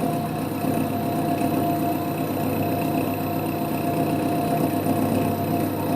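Holbrook C8 toolroom lathe running steadily, its motor and gearing giving a constant hum with a clear steady tone.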